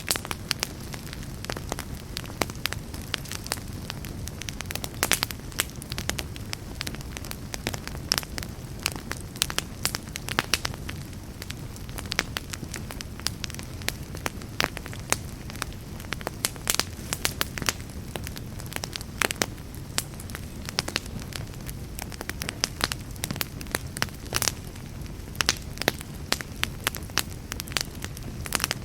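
Fireplace fire burning with a steady low rumble and frequent irregular crackles and sharp pops.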